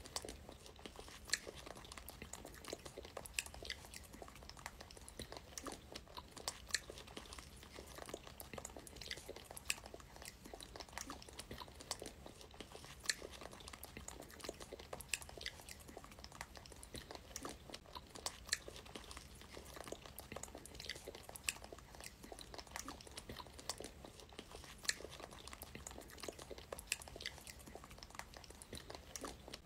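Close chewing and biting of fresh strawberries by a woman and a baby monkey: a steady run of soft, irregular mouth clicks, a few a second.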